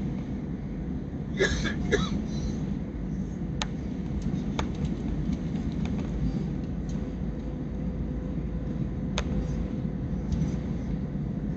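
Steady cabin noise inside an Airbus A321 airliner in flight: a constant low rumble of engines and airflow with a faint steady hum. Two short, louder noises come about a second and a half and two seconds in, and a few sharp clicks are scattered through it.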